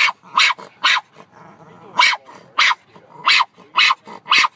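A dog barking, a run of sharp, short barks about two a second, with a pause of about a second after the first three.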